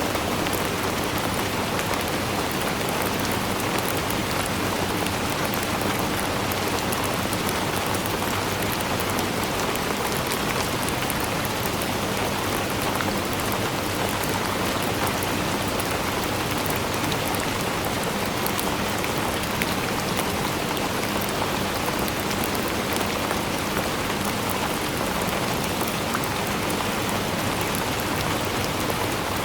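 Steady rainfall: an even hiss of rain with many fine drop patters on a surface.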